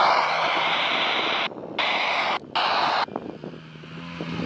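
Off-road vehicle engines at a distance, a steady roar that cuts out twice briefly, then drops to a faint low engine hum about three seconds in.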